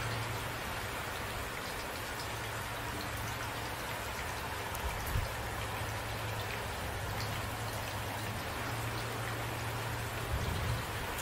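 Steady rain falling, an even hiss of drops, over a constant low hum. A couple of soft low thumps come about five seconds in and again near the end.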